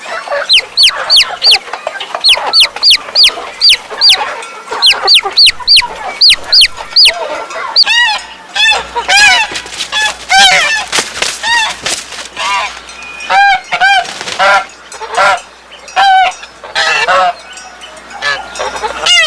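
Farmyard bird calls: a fast run of high, sharply falling peeps, about three a second, then from about eight seconds in a series of lower honking calls, each with several tones stacked together.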